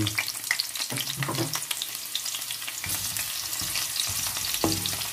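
Sliced red onion sizzling and crackling in hot oil in an aluminium frying pan, with a nylon spatula stirring it: the onion being sautéed with ginger and garlic.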